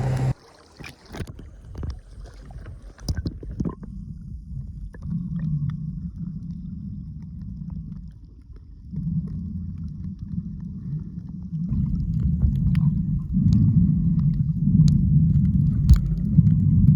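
Muffled, uneven low rumbling and sloshing of water with scattered faint clicks, growing louder in the second half.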